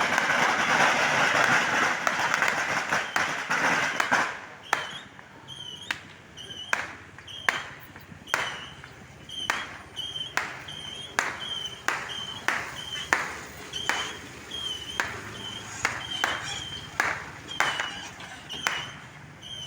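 Fireworks going off: a loud, dense crackle for the first few seconds, then a string of sharp bangs, one or two a second, each followed by a brief high whistle.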